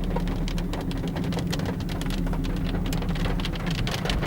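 Rain drumming on a car's roof and windscreen from inside the cabin: many sharp, irregular drop impacts over the car's steady low engine hum.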